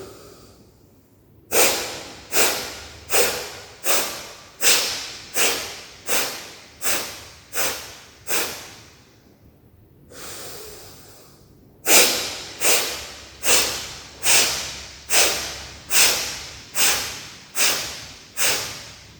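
Kapalbhati breathing: a woman's sharp, forceful exhalations through the nose, each pushed out by a snap of the stomach. They come in two runs of about ten strokes, a little more than one a second, with one slower, softer in-breath between the runs about halfway through.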